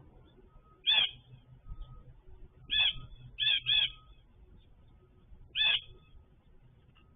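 A bird calling from the feeder area: five short calls, two of them in quick succession midway.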